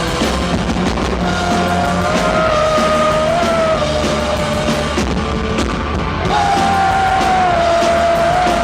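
Live rock band playing loudly, with long held melody notes over a dense wash of guitar and drums.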